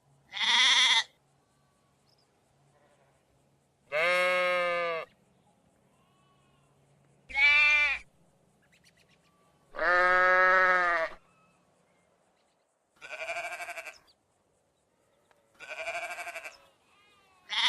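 A series of six separate bleats from sheep or goats, each about a second long and spaced a few seconds apart, varying in pitch. The last two are quieter and quavering, and another bleat begins at the very end.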